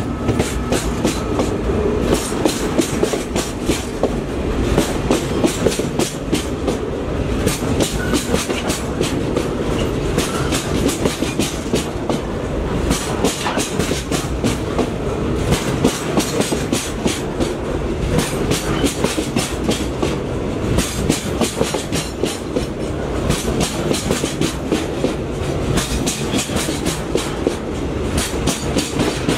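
Container freight train wagons rolling past at close range: a steady rumble of steel wheels on rail with repeated clickety-clack as wheelsets cross rail joints.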